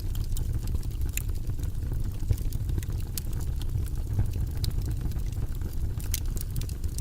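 Wood fire burning in a fireplace: scattered sharp crackles and pops over a steady low rumble of the flames, with one louder pop a little over two seconds in.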